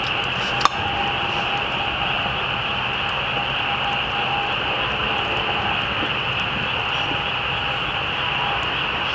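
A steady hiss of background noise with a constant high band, broken by one sharp click a little under a second in.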